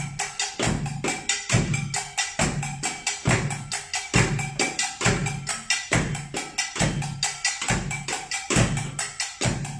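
Improvised kitchen percussion playing a layered Japanese taiko-style groove: a bucket and pots struck with sticks for the drums, a serrated scraper for the sasara, and a small metal bowl or lid struck as the kane bell. The low drum lands about once every 0.7 s, with quicker lighter hits and scrapes in between.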